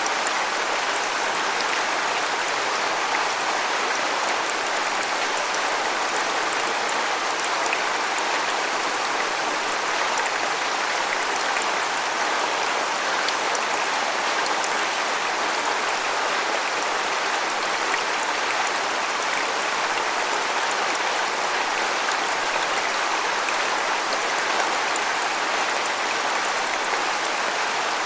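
Waterfall rushing and splashing in a steady, even hiss without let-up.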